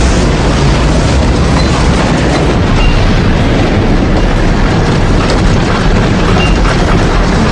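Loud, steady storm wind blowing hard: a dense rushing noise with a heavy low rumble underneath.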